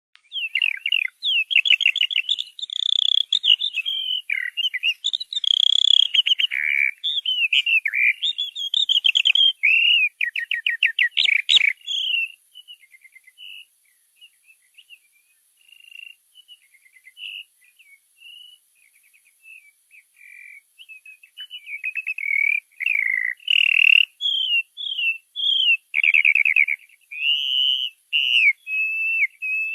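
Songbirds singing: rapid trills and chirps, busy for about the first twelve seconds, then only scattered soft notes for several seconds, then busy again.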